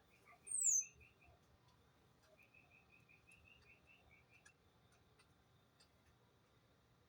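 Small birds calling: a loud, brief, very high whistle sliding downward about half a second in, then two runs of quick chirps at about six a second, the second run lasting about two seconds, with faint ticks in the background.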